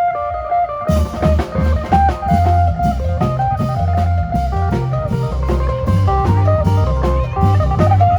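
Isan phin band playing fast lam phloen dance music: the electric phin (plucked lute) plays a short melodic run alone, then a drum kit and a heavy bass line come in about a second in while the phin keeps up the melody.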